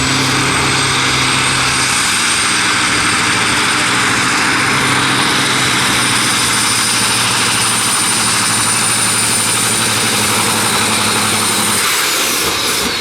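Competition pulling tractor's engine running flat out during a pull: loud and steady, with a thin high whine that climbs slowly and holds. About twelve seconds in the engine eases off and the whine falls away.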